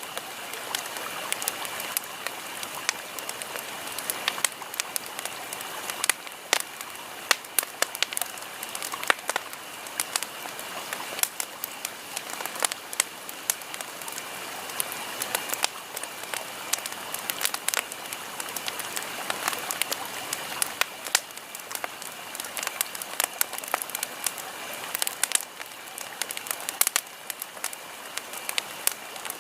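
Campfire crackling: a steady hiss with frequent irregular sharp pops.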